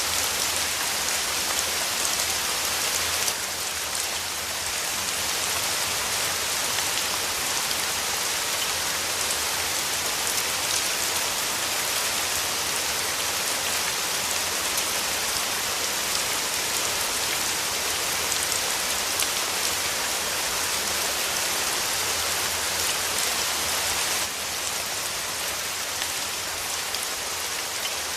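Steady rain falling, an even hiss that drops slightly in level about three seconds in and again near the end.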